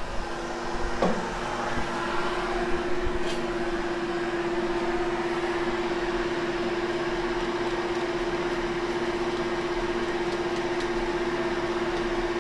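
Hoover Hushtone upright vacuum cleaner running with a steady hum, slightly louder from about two seconds in. A brief falling squeak about a second in.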